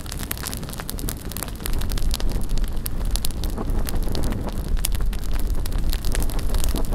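Wood bonfire crackling with dense, sharp pops, with wind rumbling on the microphone; the crackling grows louder a couple of seconds in.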